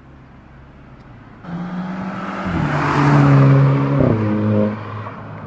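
VW Golf Mk5 GTI with a straight-pipe Milltek exhaust and DSG gearbox, its turbocharged 2.0-litre four-cylinder pulling away hard at full throttle. About four seconds in the DSG upshifts with a sharp burp, the 'DSG fart', then the exhaust note drops away.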